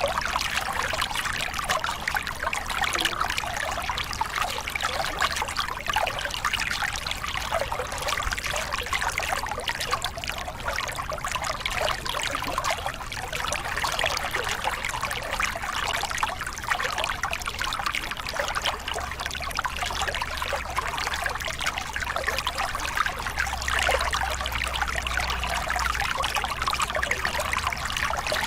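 Water running and splashing over a small river cascade, a steady dense splashing with a low rumble underneath.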